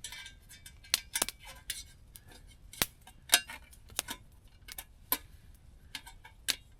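Irregular light clicks and taps, a dozen or so, some with a brief ring, as small camp gear is handled and fitted together by hand.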